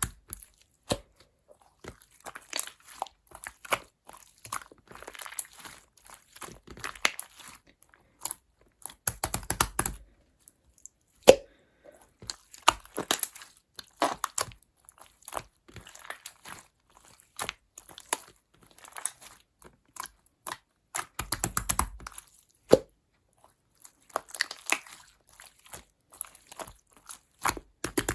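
Close-miked series of short clicks and crackles, with two denser, louder bursts about nine and twenty-one seconds in.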